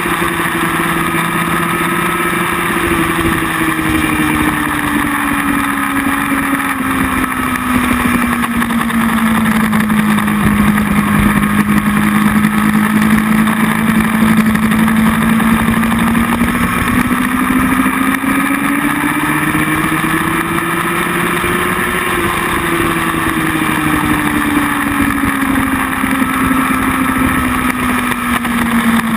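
Motorcycle engine heard from on board over a steady rush of wind noise, its pitch sliding slowly down, holding, climbing again about two-thirds of the way through, then falling off near the end.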